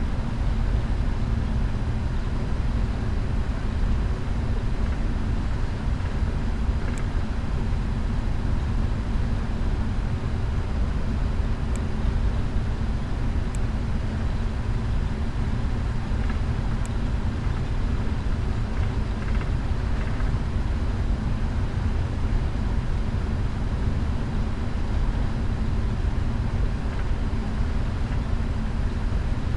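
Steady low rumble of a Boeing 777-300ER's engines and airframe heard inside the cabin. There are faint steady tones in it and a few faint ticks.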